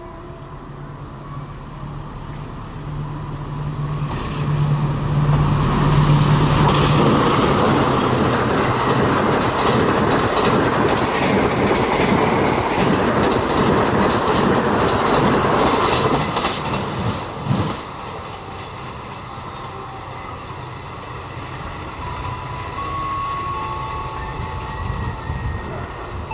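Indonesian train passing at speed behind a diesel locomotive: a low engine hum as it approaches, then a long stretch of loud rolling noise and clickety-clack of the wheels over the rail joints. It drops off sharply about two-thirds of the way through, leaving a lower rumble.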